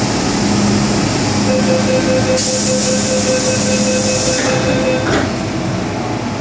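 MTR M-Train electric multiple unit running: steady rumble of wheels and running gear with steady whines from the traction equipment. A high hiss runs from about two and a half to four and a half seconds in, and a single knock comes about five seconds in.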